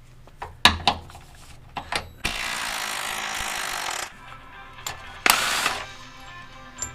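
Impact wrench running in two bursts, one of about two seconds and a short one about five seconds in, spinning out the lower control arm mount bolts. Sharp metal clinks of tools come before and between the bursts.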